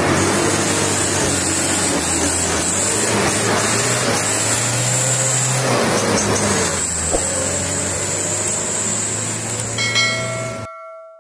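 Truck engine running loud with heavy hiss. About ten seconds in a brief steady tone sounds, and everything cuts off suddenly.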